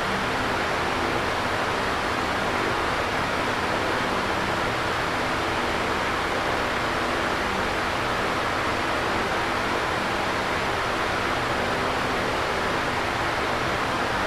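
Electric fan running steadily: an even whooshing airflow noise with a faint low hum underneath.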